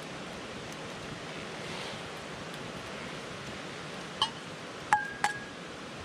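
Wood campfire burning with a steady soft hiss. About four seconds in come three sharp clinks, each with a short ring.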